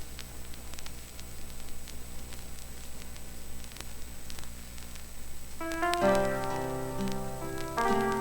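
Vinyl record surface noise in the silent groove between tracks: scattered clicks over a low steady hum. About five and a half seconds in, a piano intro starts playing the next song.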